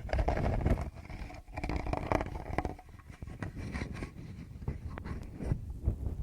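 Fingers rubbing and tapping directly on a Tascam recorder's microphones, making close, irregular scratchy rubbing with low thumps and small clicks.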